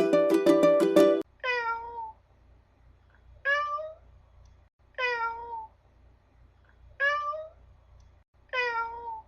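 Ukulele music that stops about a second in, then a domestic cat meowing five times, about one call every second and a half or so, alternating a meow that falls in pitch with one that rises.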